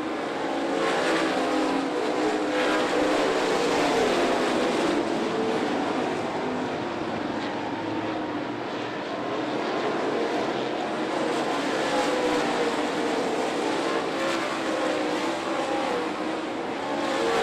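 Several dirt late model race cars' V8 engines running hard together as a pack laps the track, their overlapping engine notes swelling and fading.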